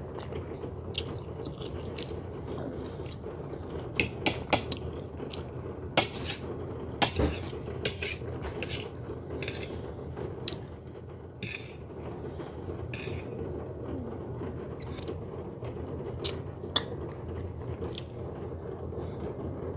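Scattered clicks and clinks of cutlery and dishes, a few sharper knocks among them, over a steady low background hum.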